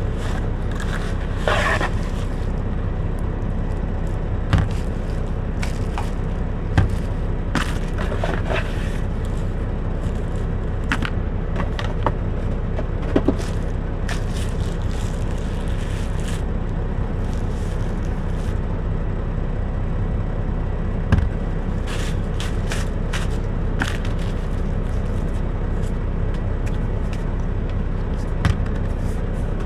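Steady low idling hum of a semi truck's engine, heard from inside the cab, with scattered scrapes, clicks and knocks as things are handled.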